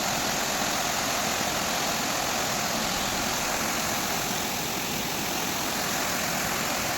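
Steady, even rushing noise with no distinct tones or rhythm.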